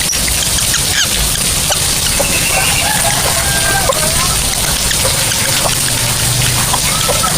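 Lovebirds giving scattered short chirps and brief whistled notes over a steady, loud rushing hiss.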